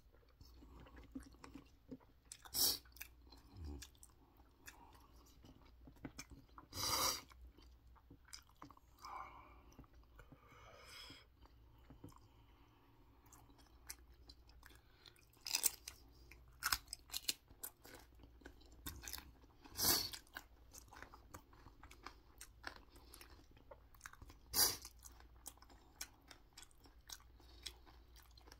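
Close-up chewing and mouth sounds, with several louder crisp crunches as bites are taken from raw Cheongyang green chili peppers dipped in seasoning paste.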